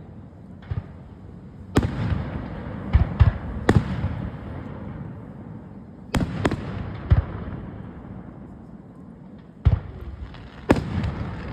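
Fireworks display: about ten sharp bangs at irregular intervals, some in quick pairs, over a continuous low rumble of echoing bursts.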